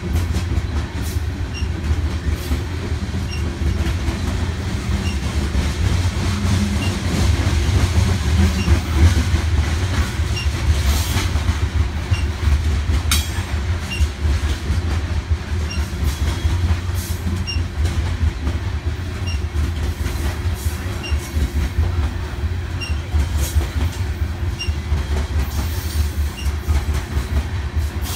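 Coal hopper cars of a BNSF freight train rolling past: a steady low rumble with regular light wheel clicks over the rail joints and a few brief clanks.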